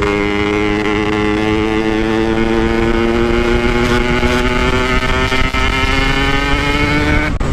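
Motorcycle engine running under way at fairly steady revs, its pitch sinking slowly, over a low rumble. Near the end it cuts out for a moment, as for a gear change or a closed throttle, then picks up again.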